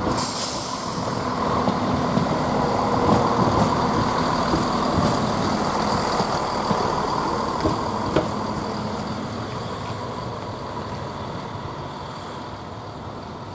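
Two coupled Class 170 Turbostar diesel multiple units running under diesel power and moving away. The engine and running noise fades gradually.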